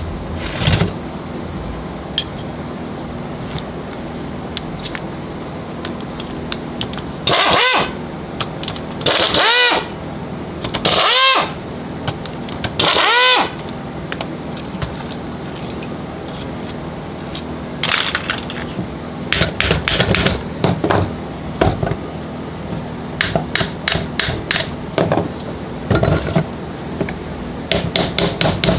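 Metal alternator parts and hand tools being handled on a workbench: four short noisy bursts about two seconds apart in the first half, then a run of clicks and knocks, over a steady hum.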